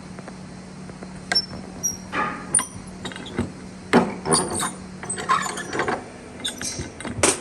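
Irregular knocks and clicks of tools being handled on wood, over a steady low hum.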